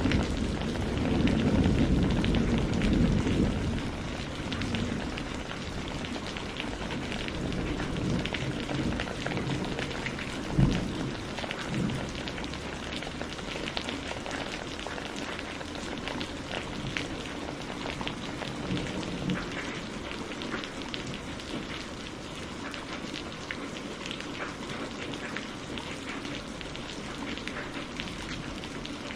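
Steady rain falling, with a constant patter of drops. A low thunder rumble dies away over the first few seconds, and a single low thump comes about ten seconds in.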